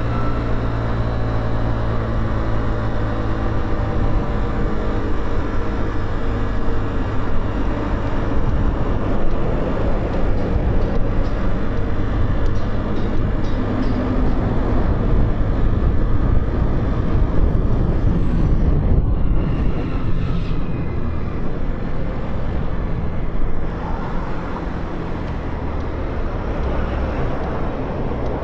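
Motorcycle engine and road noise while riding through city traffic. The engine note falls in pitch over the first several seconds, then evens out and gets a little quieter near the end.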